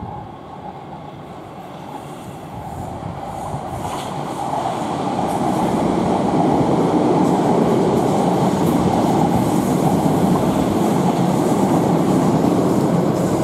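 Class 455 electric multiple-unit passenger train passing on the line below. The wheel-and-rail noise builds over the first six seconds and then holds steady and loud.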